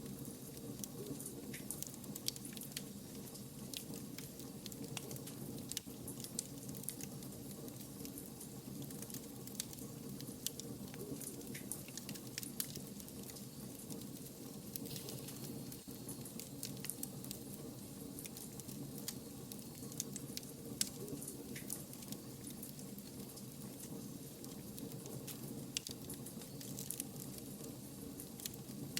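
Wood fire burning, with a steady low rush under frequent, irregular sharp crackles and pops from the burning logs.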